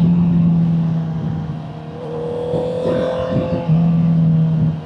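A Honda CBR650R's inline-four engine with a Vandemon aftermarket exhaust, running at steady revs under way. The engine note eases off around the middle and comes back strong near the end.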